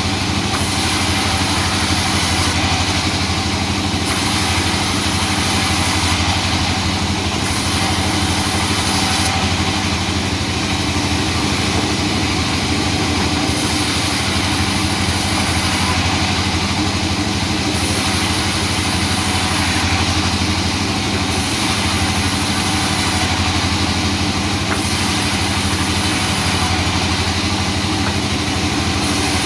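Sawmill machinery running steadily, with a constant engine-like hum.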